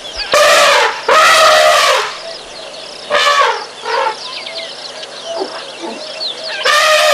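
Elephants calling with high-pitched, brassy trumpets: two calls of under a second each near the start, a short one about three seconds in, and a longer, steadier one beginning near the end.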